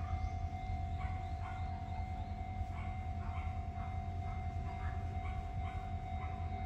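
Sotetsu Main Line electric train running past: a steady low rumble with a steady hum over it, and short chirps repeating every fraction of a second.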